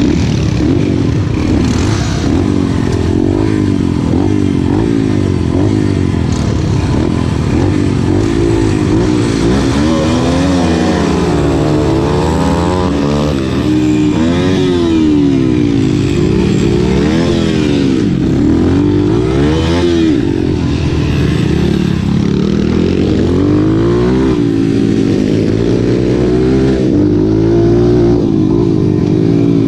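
Several racing motorcycle engines revving up and down together, their overlapping notes repeatedly rising and falling as the bikes race.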